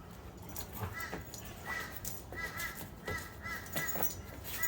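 A crow cawing repeatedly in short, evenly pitched calls, some in quick pairs, with a few soft scuffles and thuds from dogs playing.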